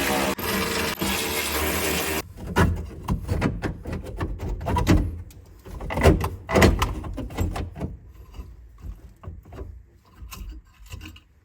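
A small power tool's motor running steadily for about two seconds and cutting off, followed by a series of knocks, clunks and scrapes of hand work on the truck's metal parts, loudest in the middle and fading toward the end.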